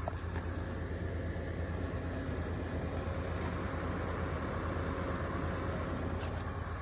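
Electric space heater's fan running steadily: a low hum with an even rush of air, and a light click about six seconds in.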